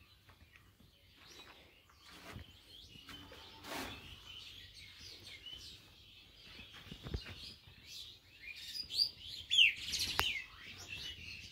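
Small birds chirping: a run of short, high calls that grows busier and louder toward the end, with a few quick falling notes about ten seconds in. A few soft knocks sound underneath.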